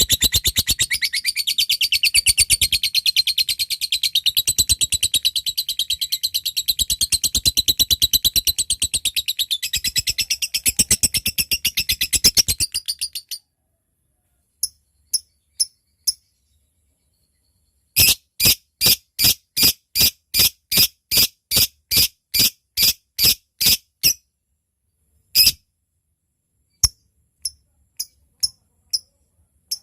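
Lovebird's long ngekek call, a rapid, continuous, shrill chattering trill for about thirteen seconds that stops abruptly. After a short pause it gives sharp single ngetik chips: a few spaced ones, then a regular run of about a dozen at roughly two a second, then a few scattered ones.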